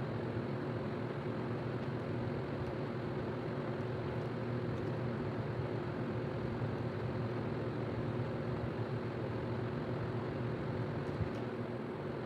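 A steady mechanical hum with a low drone, running evenly without breaks or changes.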